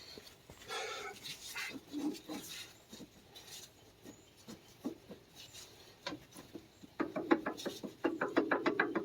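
Hand ratchet clicking in two quick runs near the end while bolts are started on the tractor's front axle housing, after scattered clinks and knocks of metal tools and parts.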